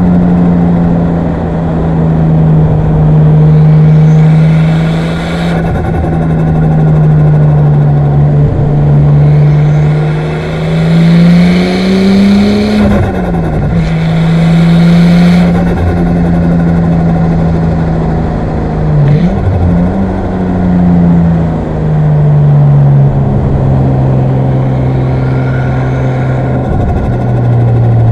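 Single-turbo RB25DET Neo straight-six of a Nissan Skyline R34 GTT running hard at steady mid revs, with two brief dips in the middle, as at gear changes or lifts, and dropping to lower revs near the end. A faint high whistle rises a few times over it, the turbo spooling.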